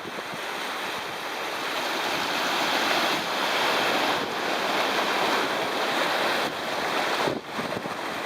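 Sea waves surging and breaking against the shore, a continuous rushing wash that swells over the first few seconds, holds, then drops briefly near the end.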